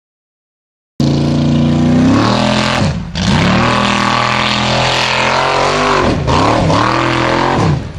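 Jeep-bodied off-road race car's engine revving hard under full load on a steep hill climb, cutting in abruptly about a second in. The revs dip and climb back twice, then drop away near the end.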